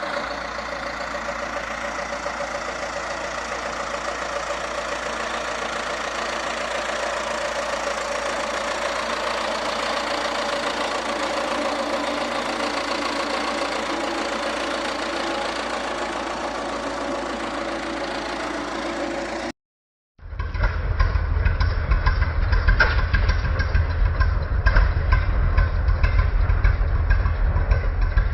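Antique tractor engines running. A steady engine sound runs for about twenty seconds, then after a cut a deeper, louder engine with a pulsing low beat is heard close by.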